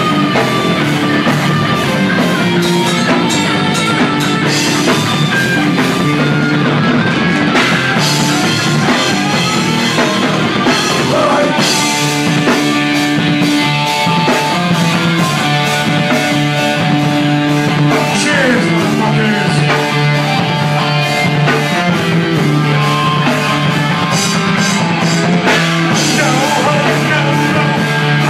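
Live punk/rock band playing loud, with distorted electric guitars, bass and a pounding drum kit, and vocals over the top.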